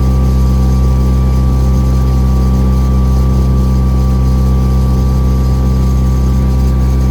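Lake cruise boat's engine running steadily: a loud, even low drone with no change in pitch.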